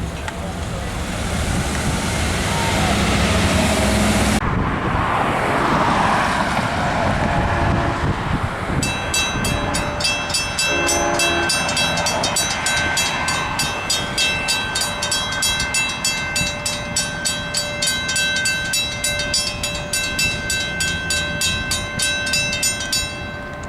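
LIRR train passing a grade crossing with a loud rush of noise. About nine seconds in, the crossing's warning bell starts ringing in rapid, even strikes, and it stops just before the end.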